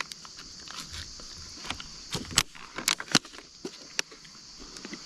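Steady high-pitched chorus of crickets and other night insects, with a few sharp clicks and rustles of handling about two to three seconds in and again near four seconds.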